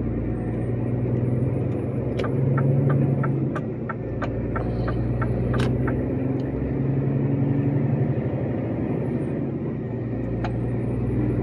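Heavy truck's diesel engine running with a steady low hum that steps up and down in pitch a few times. A quick run of light, evenly spaced clicks comes a couple of seconds in.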